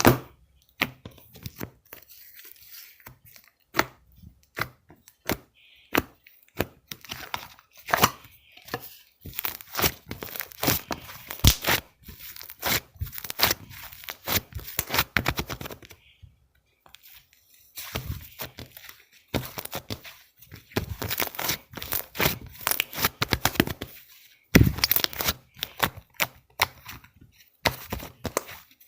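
Hands squishing, poking and stretching a banana-milk slime: sticky crackling, popping and tearing sounds in quick runs, with a couple of short pauses.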